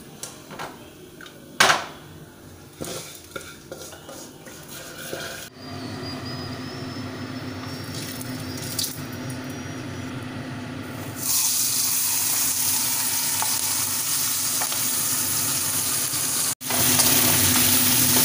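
Pots and utensils clinking and knocking for the first few seconds. Then hot oil in a kadai hissing quietly, and from about eleven seconds in a loud, steady sizzle of a fish head frying in the oil.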